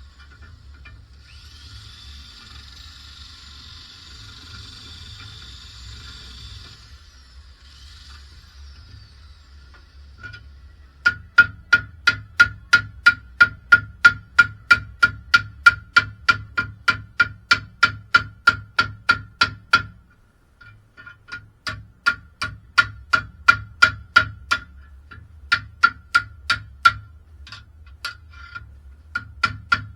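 Hammer striking metal in a steady run of sharp, ringing blows, about three a second, starting about a third of the way in. After a short pause the blows come in shorter, more scattered bursts.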